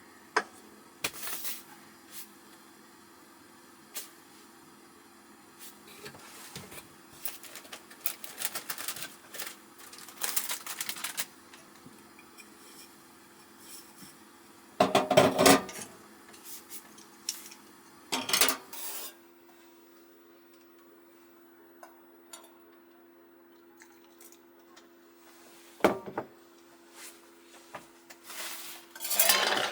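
Cookware and utensils being handled: scattered clinks, knocks and clatters, louder a little past halfway and near the end, over a faint steady hum.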